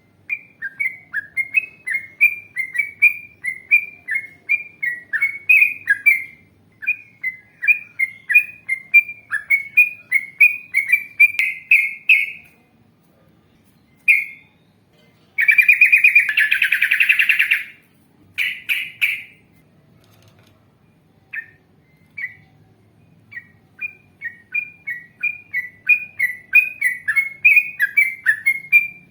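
Yellow-vented bulbul (trucukan) singing: long runs of short, bright chattering notes repeated about two to three times a second. Midway a dense rolling trill lasts about two seconds before the repeated phrases start again.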